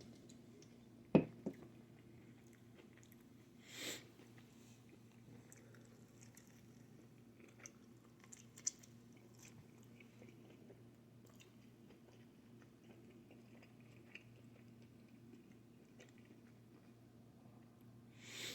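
Faint chewing and biting of pizza over a low steady hum, with a sharp click about a second in and a short noisy puff near four seconds.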